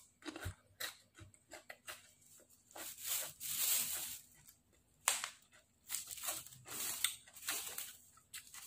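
A person chewing a mouthful of spicy salad close to the microphone: irregular crunches and clicks with short noisy stretches of chewing.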